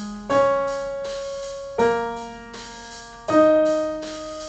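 Piano playing a slow pattern of single notes, three struck about a second and a half apart, each ringing and fading before the next: a short ear-training pattern in F sharp major for students to play back.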